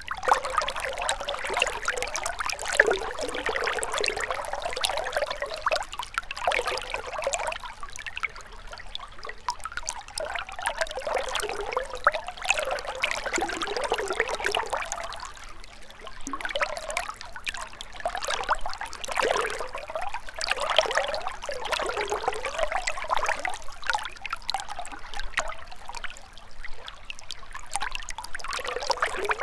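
Shallow river water trickling and gurgling over stones, swelling and easing every few seconds.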